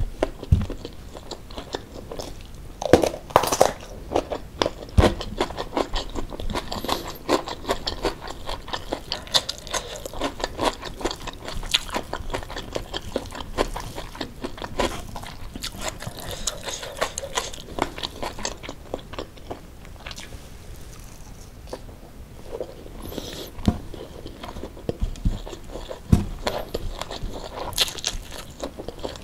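Close-miked mouth sounds of eating rice with sambal: steady irregular chewing with crisp crunches and a few louder clicks.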